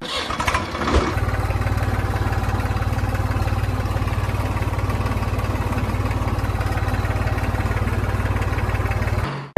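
Engine idling steadily with a fast, even putter, starting about a second in and cutting off abruptly just before the end.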